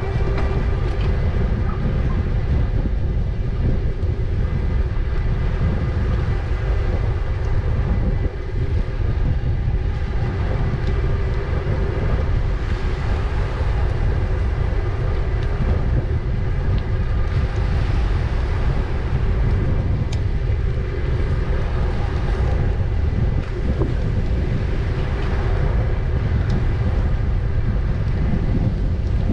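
Wind buffeting the microphone of a moving e-bike, a loud steady low rumble, with a faint steady hum held underneath.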